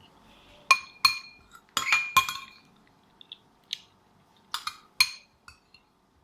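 A metal spoon clinking against a bowl while granola with milk is eaten: about eight sharp, irregular clinks, some with a brief ringing tone.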